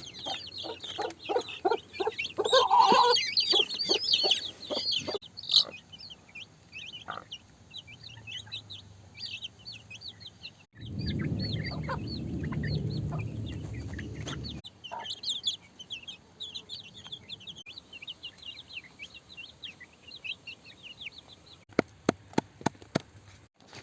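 A hen clucking, with many short high chirps throughout. The clucking is loudest in the first few seconds. A low rumbling noise runs for about four seconds midway, and a quick run of sharp clicks comes near the end.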